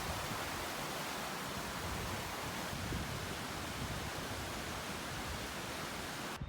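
Steady rush of a fast-flowing stream or mountain river, an even wash of noise that cuts off suddenly near the end.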